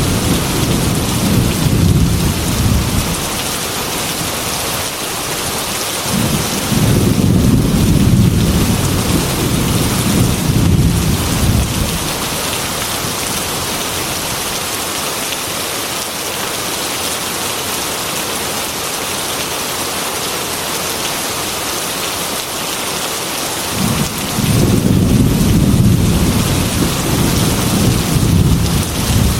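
Heavy rain pelting a glass window, a steady hiss, with rolling thunder rumbling low three times: at the start, again for several seconds from about six seconds in, and once more near the end.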